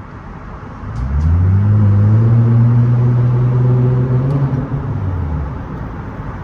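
Straight-piped Nissan Altima exhaust under a short burst of full throttle: the engine note climbs about a second in, holds loud for about three seconds, then drops away as the throttle is let off.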